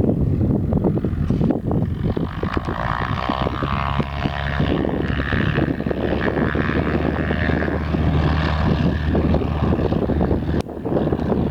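Small propeller airplane's engine droning as it passes, heard from about two seconds in until it drops away near the end, over wind buffeting the microphone.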